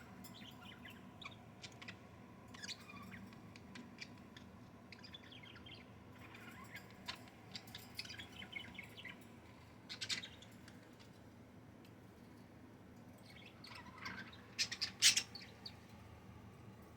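Budgerigars chirping and chattering in short scattered calls, with the loudest bursts about ten seconds in and again near the end.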